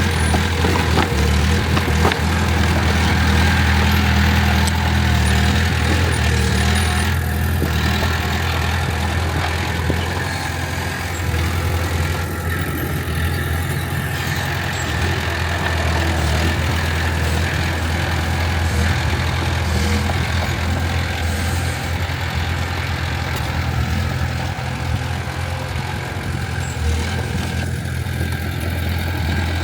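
Heavy diesel engine of earth-moving machinery running steadily at a constant speed, with mechanical clatter over a low engine note.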